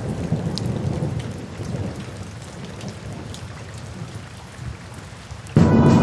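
Steady rain falling with a low rumble of thunder and a few sharp drop ticks. About five and a half seconds in, music comes in suddenly and loudly.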